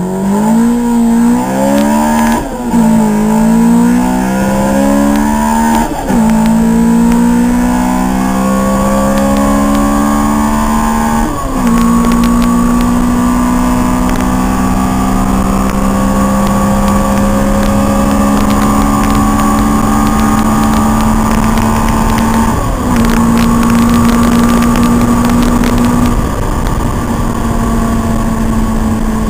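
Honda CRX VTEC engine accelerating flat out through the gears in a 0-200 km/h run. The pitch climbs in each gear and drops sharply at each upshift, about 2.5, 6, 11.5 and 23 seconds in, and each later gear climbs more slowly.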